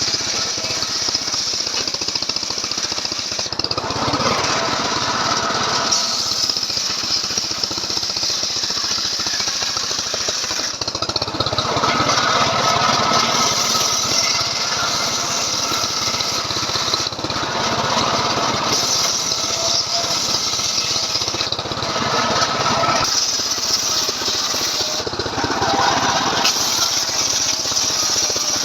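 Stihl MS 381 two-stroke chainsaw engine running continuously under load as its chain rips lengthwise through a johar log. The engine note shifts a little as the cut loads it.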